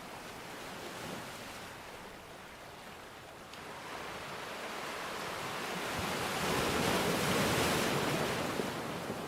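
Surf washing in: a steady hiss of water that swells to a loud rush about seven seconds in, then eases back.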